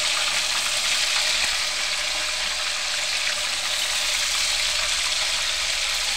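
Cubes of paneer frying in hot oil in a wok, giving a steady, loud sizzle.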